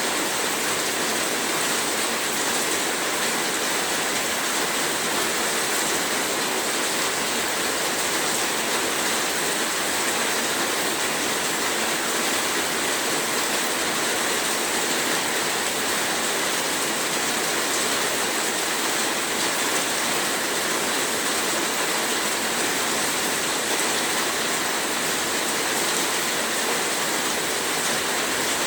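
Heavy rain falling, a steady, even hiss with no distinct drops or breaks.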